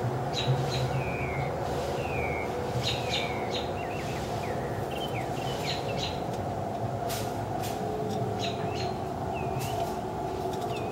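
Birds chirping over and over, with short calls that sweep up or down, above a steady low background hum.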